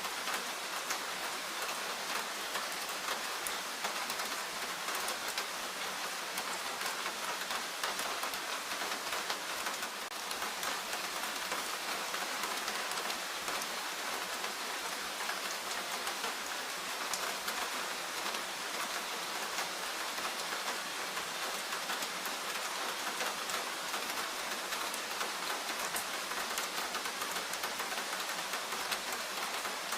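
Steady rainfall in a forest, with the patter of many drops striking leaves and the ground.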